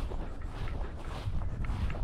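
Wind buffeting the microphone, a steady low rumble, with scattered rustles and faint clicks.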